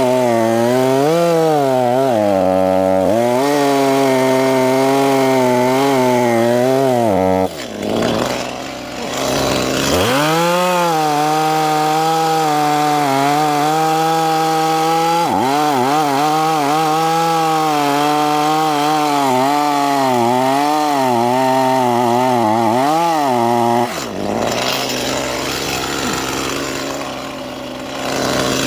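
Stihl two-stroke chainsaw running at high revs while cutting through a log, its pitch wavering under the load. Twice, about seven seconds in and again near the end, the throttle drops off and the engine sinks toward idle before revving back up.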